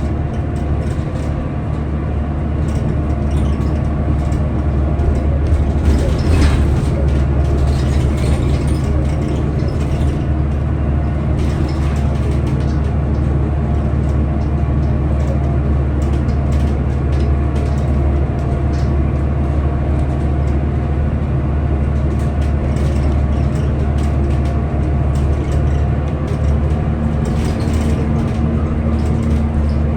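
Scania L94UB bus running along, its engine a steady drone with scattered clicks and rattles. The engine note lifts briefly about six seconds in, and its pitch shifts near the end.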